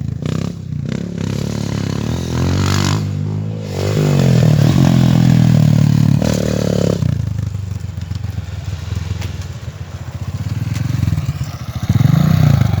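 A 230 cc dirt bike's engine running under throttle, getting louder and higher about four seconds in, then dropping back to a lower, uneven running note, with a short surge near the end.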